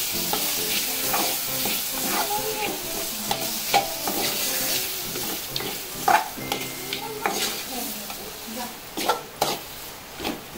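Chopped chicken feet sizzling as they fry in oil with masala in a pan, cooked dry without water, while a spoon stirs them and knocks against the pan several times. The sizzle dies down toward the end.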